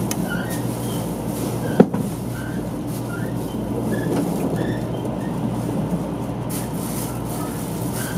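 Cabin noise of a 500 series Shinkansen running at speed, heard from a passenger seat: a steady rumble of wheels, track and motors. A single sharp click about two seconds in.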